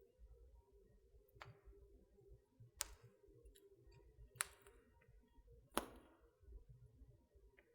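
Wood fire in a fireplace crackling faintly, with four sharp pops spaced about a second and a half apart over a low rumble.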